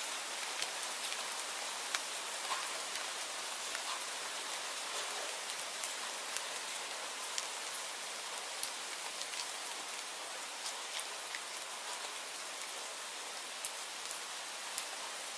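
Steady rainfall: a dense, even hiss with scattered sharp ticks of single drops landing.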